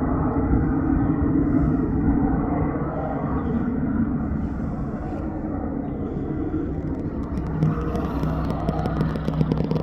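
Steady engine rumble, with a steadier low hum coming in about three-quarters of the way through.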